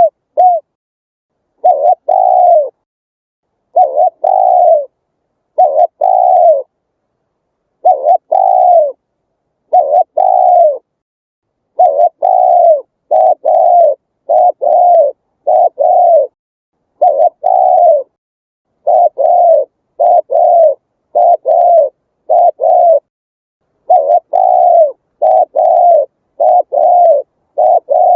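Spotted dove cooing over and over: short, arched, low coos in quick groups of two or three, about every one to two seconds.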